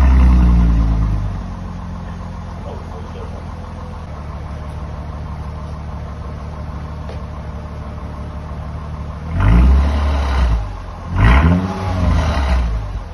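Mercedes-Benz CLK 320's M112 3.2-litre V6 through an exhaust with a straight pipe in place of the middle silencer and the rear silencer kept, settling from a start-up flare to a steady idle, then revved in three short blips near the end.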